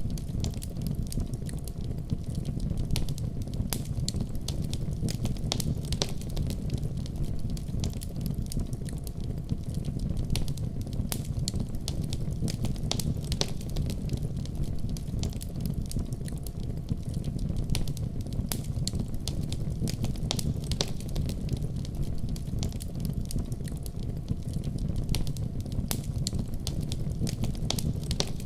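Wood fire crackling in a fireplace: a steady low noise of burning flames with frequent sharp crackles and pops throughout.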